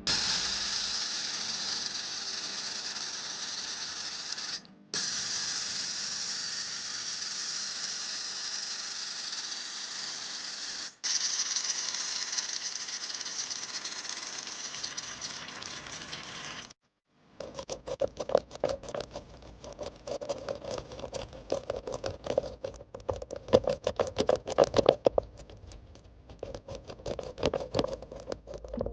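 Water spray hissing steadily over a miniature die-cast car as it is rinsed, cut twice, then a brush scrubbing the small body with rapid, uneven scratchy strokes.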